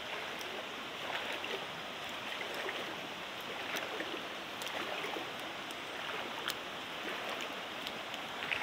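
Fast-flowing stream rushing steadily, with a few faint sharp ticks scattered through it.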